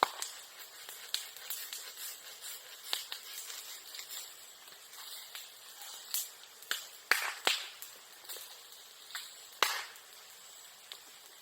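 Bonfire of bamboo and bamboo grass crackling, with scattered sharp pops and cracks from the burning bamboo; the loudest cracks come about seven and ten seconds in, and it thins out after that.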